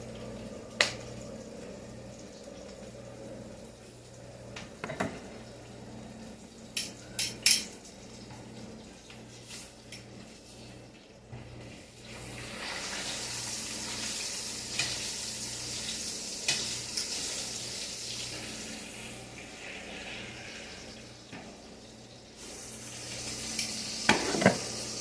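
Chicken frying in a pan, the sizzle rising about halfway through and holding, with a few sharp knocks and clinks of a utensil against the pan early on and again near the end.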